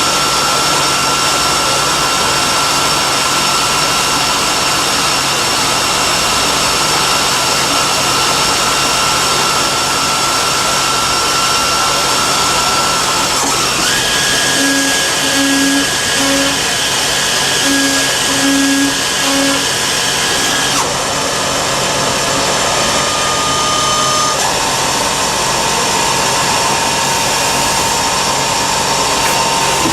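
CNC lathe machining metal, a steady machine noise with a thin whine that shifts to a new pitch several times as the spindle or cutting changes. Partway through there is a short series of low beeping tones.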